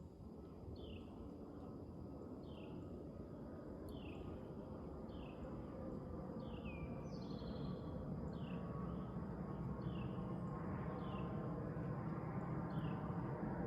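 A songbird calling over and over, each call a short downward-slurred whistle about once a second. Under it is a steady rushing background noise that grows gradually louder.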